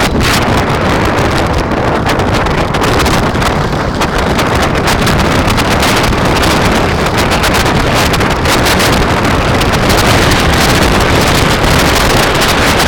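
Loud, steady wind rushing and buffeting against the microphone of a camera moving along with a rider.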